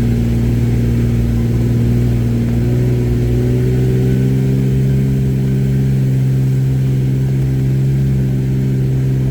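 Jeep's engine running steadily under load while crawling up a steep off-road trail, its pitch rising slightly a few seconds in.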